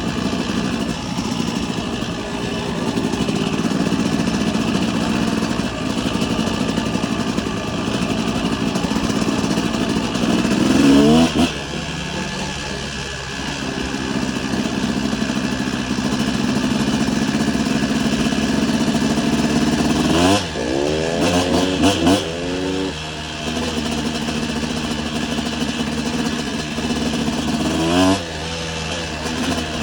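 Motocross bike engine running steadily under way. Its revs sweep up sharply about a third of the way in, climb in a quick run of rising sweeps about two-thirds in, and rise once more near the end.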